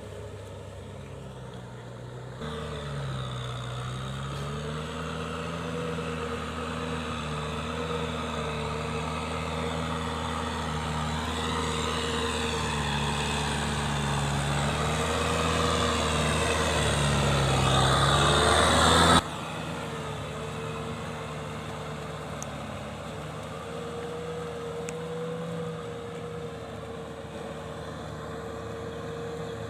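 Kubota M6040SU tractor's diesel engine running steadily. It jumps louder about two seconds in and keeps growing louder for some fifteen seconds, then drops suddenly to a quieter steady run about two-thirds of the way through.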